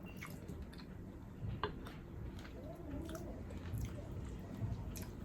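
A person chewing a mouthful of food close to the microphone, with scattered small clicks and smacks.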